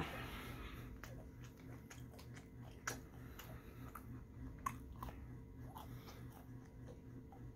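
Close-miked chewing of a soft breakfast sandwich: wet mouth smacks and clicks, the loudest about 3 s in and again near 5 s, after a brief rush of noise at the very start. A steady low hum runs underneath.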